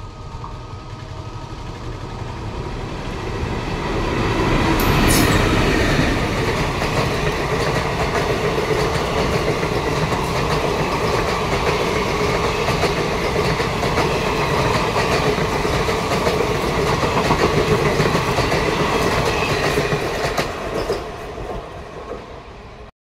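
Express passenger train running through the station at speed without stopping: the sound of its wheels clattering over the rail joints builds over the first few seconds, stays loud for about fifteen seconds as the coaches pass, then fades and cuts off suddenly near the end.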